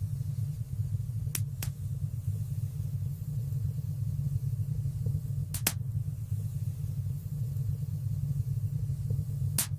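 Fireplace fire burning with a steady low rumble and occasional sharp crackles: a pair about a second and a half in, another pair a little past the middle, and one near the end.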